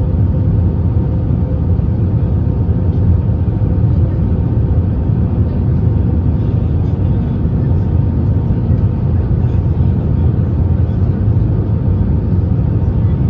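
Steady cabin rumble of an Airbus A321neo in flight, with its CFM LEAP-1A engines and airflow heard from inside the cabin; a continuous, even noise heaviest in the low end.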